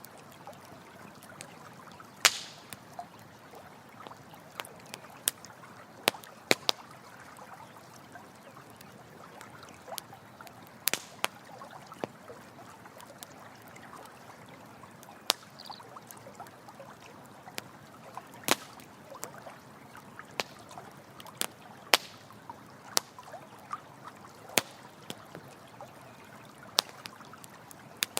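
Campfire crackling with irregular sharp pops, about one a second, over the steady trickle of a running stream.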